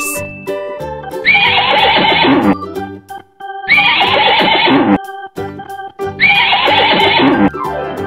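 A horse whinnying three times, each neigh a little over a second long and falling in pitch, over light background music.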